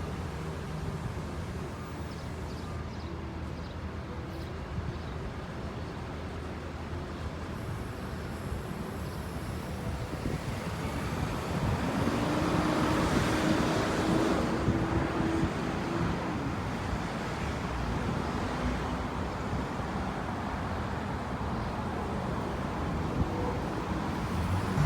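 Street traffic noise, with one vehicle passing louder about halfway through, carrying a steady hum as it goes by.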